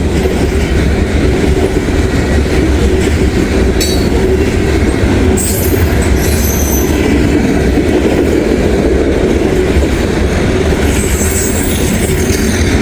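Freight train of grain cars rolling past close by: a steady loud rumble and clatter of steel wheels on the rails, with a few brief high squeals from the wheels.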